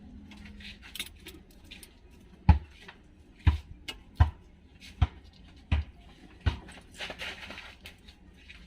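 A series of irregular sharp knocks and lighter clicks, about one a second, with no engine running.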